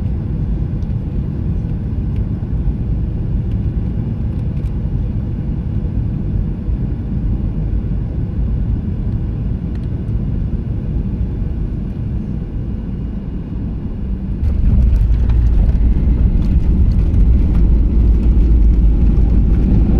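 Boeing 737-800 cabin noise heard from a window seat: a steady low rumble on short final. About three-quarters of the way through it jumps suddenly to a louder roar with rattling, which is the braking roll after touchdown with the airbrakes open.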